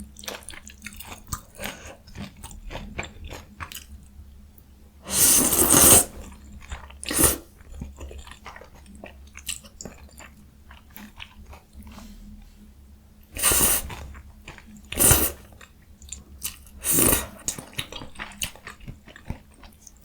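Close-miked eating of jjajang ramyun noodles and young summer radish kimchi: steady small chewing clicks, broken by five louder noisy bursts, the longest lasting just under a second.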